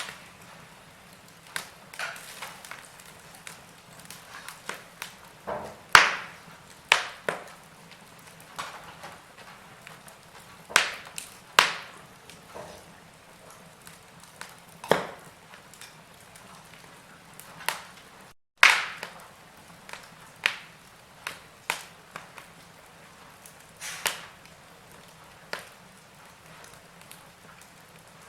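Wood fire in a fireplace crackling: irregular sharp pops and snaps of burning logs over a faint steady hiss. The sound cuts out for an instant about two-thirds of the way through.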